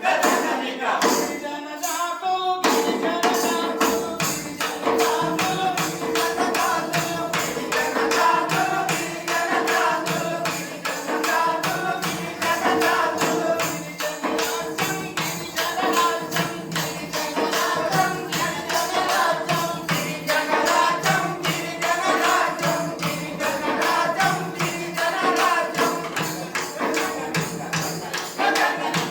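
A man singing a Telugu song over a steady jingling, tambourine-like beat, with a held drone note that comes in about two and a half seconds in.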